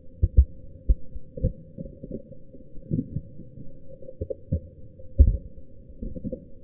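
Heavily muffled low thuds and rumble at an irregular pace, with all higher sound cut away.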